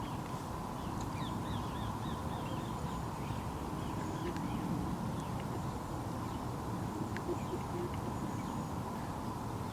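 Birds calling in short repeated notes, thickest in the first couple of seconds, over a steady low background rumble.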